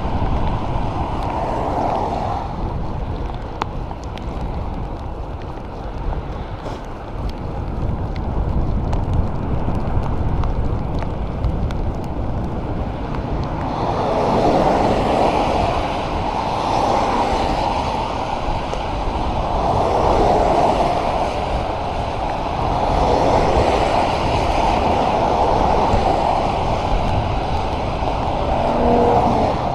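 Wind rushing over the microphone on a bicycle ride in the rain, a steady rumble that swells and eases several times from about halfway through.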